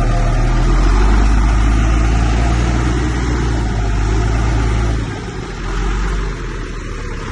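Heavy diesel engine of earthmoving machinery running with a steady low drone, easing off about five seconds in.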